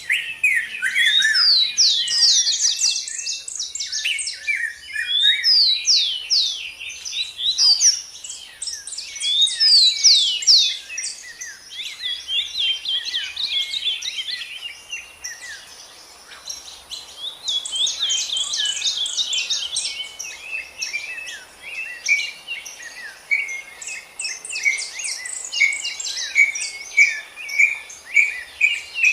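Songbirds singing: bouts of rapid chirps and quick downward-sweeping notes a few seconds long, and in the last few seconds a fast run of repeated lower chirps, over a faint steady high hiss.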